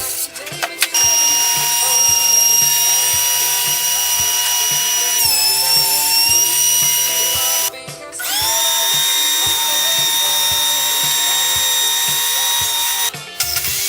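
Electric drill running in long steady runs with a high motor whine. It stops briefly twice and spins back up, rising in pitch, and its pitch sags for a moment partway through as it takes load.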